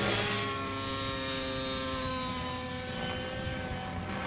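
Align T-Rex 700 RC helicopter in flight: its nitro glow engine and rotor give a steady, high multi-tone whine that eases slightly down in pitch and level in the first two seconds. The engine is tuned a little rich, and the pilots still call it slightly off.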